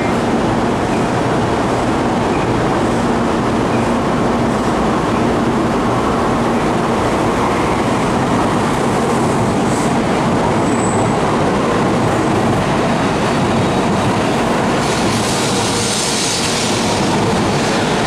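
N700A Shinkansen train pulling into the station and rolling past the platform: a steady rumble of wheels and running gear. A brief high squeal comes about eleven seconds in, and a stretch of high hiss about fifteen seconds in.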